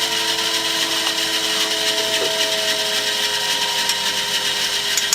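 A power tool running steadily: a whirring noise with a steady hum, and one sharp click near the end.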